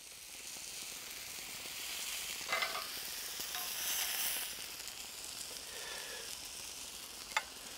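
Lamb burgers sizzling in a hot frying pan as they are lifted out with metal tongs. There is a brief clatter about two and a half seconds in and a sharp tap near the end.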